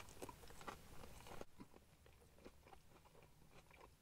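Faint chewing and mouth sounds of a man eating a spoonful of mashed potato and gravy: soft, scattered clicks and smacks, more of them in the first second or so.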